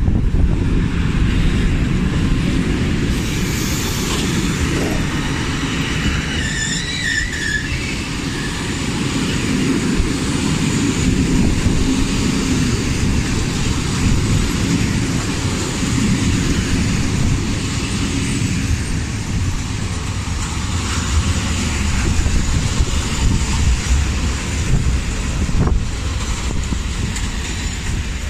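A train passing close by: a loud, steady rumble, with a few brief higher tones about six to eight seconds in.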